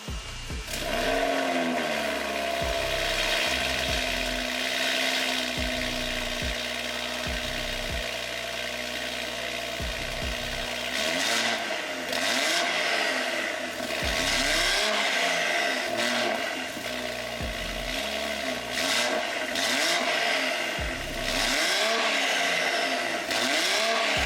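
BMW M340i's turbocharged inline-six running through an aftermarket Dinan exhaust and VRSF downpipe, revved up and down again and again, with more frequent revs in the second half.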